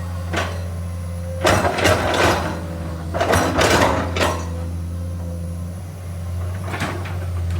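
Komatsu PC210 hydraulic excavator's diesel engine running with a steady low hum, broken by several loud bursts of rattling and scraping from the machine at work, the longest lasting about a second each.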